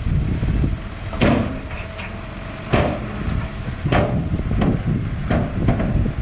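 Small bulldozer's diesel engine running under load, with a run of sharp metal clanks at uneven intervals.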